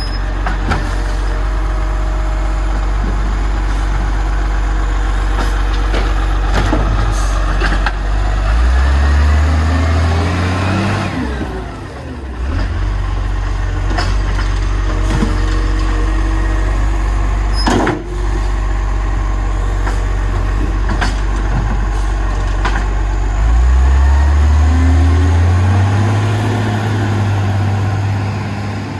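Garbage truck's diesel engine running at idle, revving up twice for a few seconds each before settling back, with a few sharp knocks in between.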